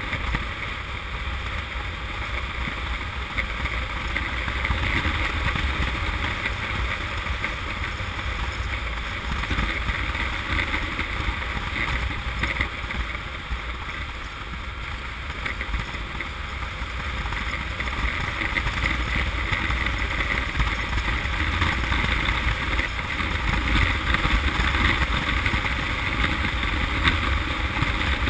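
Honda CM200T motorcycle at riding speed: wind rushing over the camera microphone with the engine and road running underneath, swelling and easing a little as the speed changes.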